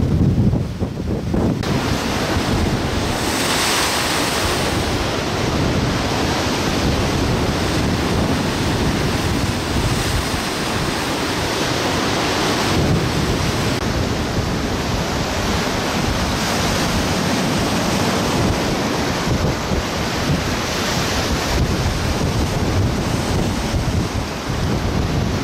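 Rough, wind-driven waves on Lake Erie breaking and washing in a continuous rush of surf, with strong wind buffeting the microphone, heaviest in the first second or so.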